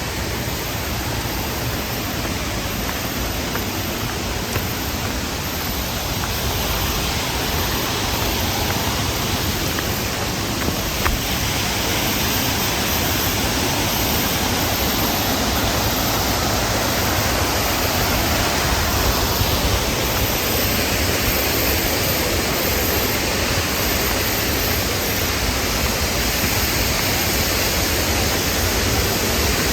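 Steady rush of flowing water, such as a small waterfall or stream, with no distinct events, growing a little louder after the first several seconds.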